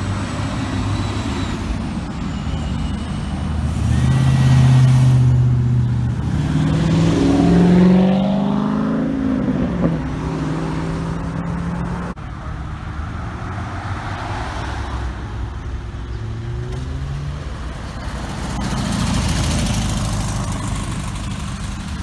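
Cars driving past one after another, one engine accelerating hard with a climbing pitch a few seconds in, and another car swelling past near the end, over steady engine and road noise.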